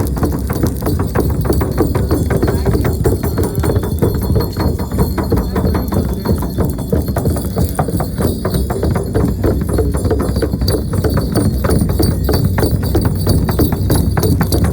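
A shaman's frame drum beaten rapidly and without a break, with metal bells and pendants jingling along with the beats.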